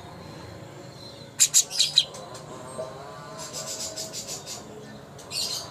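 Songbird calling: a quick cluster of sharp, high chirps about a second and a half in, a fast chattering run of high notes in the middle, and a short burst near the end.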